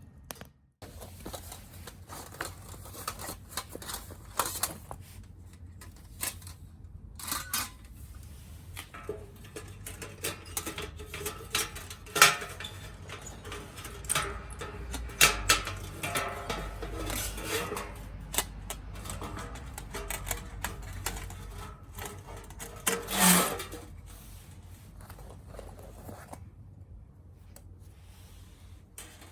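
Wood fire crackling in a small tabletop grill: irregular sharp pops and snaps, with a louder knock about two-thirds of the way through.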